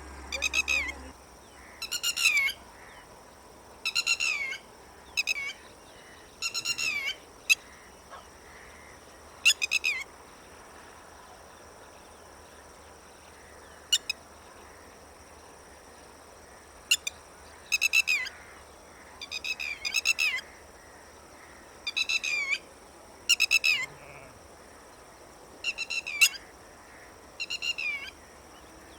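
Red-wattled lapwing calling: loud, sharp calls, each a quick run of several notes falling in pitch, repeated every second or two. There is a pause of several seconds midway, broken by a single short note, before the calls resume.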